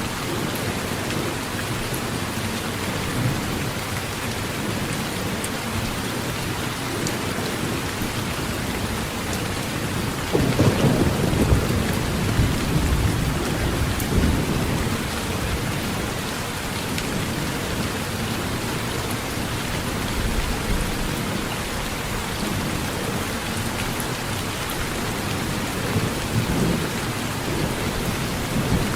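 Heavy rain falling steadily on a metal roof, with a rumble of thunder swelling about ten seconds in and fading over a few seconds, and weaker rumbles later.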